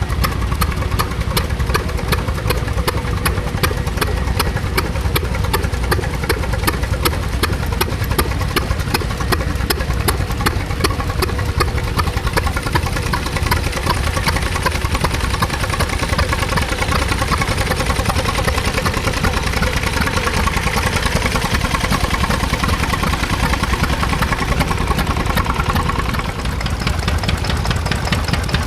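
Vintage stationary engine running steadily, with a fast, even mechanical ticking over its low running note. The ticking is plainest in the first half and fades, and a lighter, quicker ticking comes in near the end.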